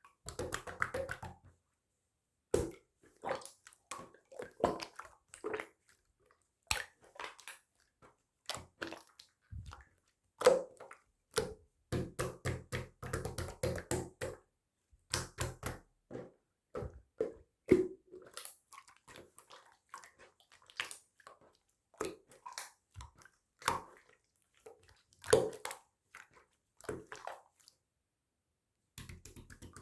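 Slime being squished and pressed by hand, giving irregular sticky clicks and pops in short runs separated by brief pauses.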